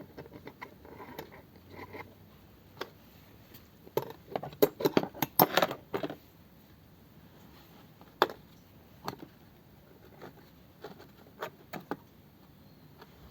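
Hand work with small metal fittings and tools: scattered light clicks and scrapes, a burst of rapid clattering knocks from about four to six seconds in, and a single sharp click a little past the middle.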